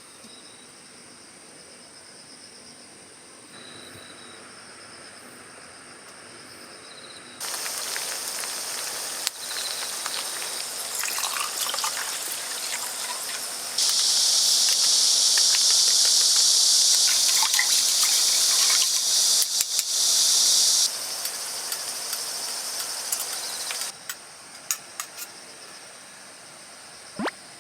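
Water running and splashing, starting about seven seconds in, turning into a louder, higher hiss for several seconds in the middle, then easing and stopping a few seconds before the end. Insects chirp steadily throughout.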